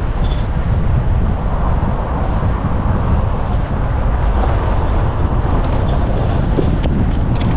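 Steady engine and road rumble of a moving taxi car, heard from inside, with a few faint rattles.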